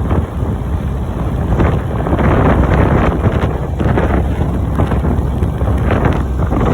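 John Deere tractor engine running steadily while hauling a load of straw bales, with wind buffeting the microphone.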